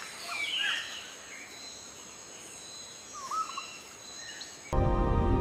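Outdoor forest ambience: a few short bird chirps over a steady high insect drone, with no howling heard. Near the end, music cuts in abruptly and becomes the loudest sound.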